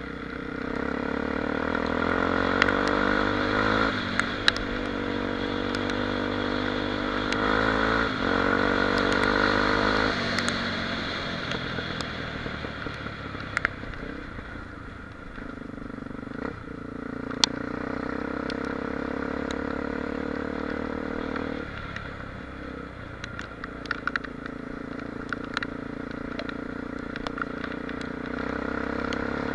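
Honda XR 250 Tornado's single-cylinder four-stroke engine riding along, climbing in pitch through two gear changes in the first ten seconds, then easing off and settling to a steady cruise. Scattered sharp ticks and clatter run through it.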